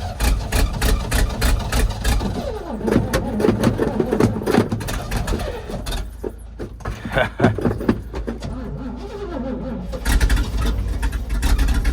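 Engine being cranked on a cold start, turning over with uneven pulses and trying to catch without settling into a run.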